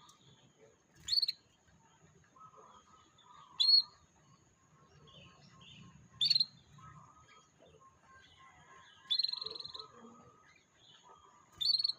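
Canary calls: five sharp, high chirps about every two to three seconds, the fourth drawn out into a short trill, over quieter, lower chirping.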